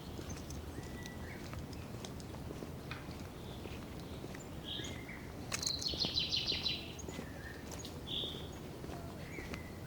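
Forest birds singing: scattered short high calls and chirps, with a louder rapid trill of repeated notes in the middle, over soft footsteps on a dirt trail.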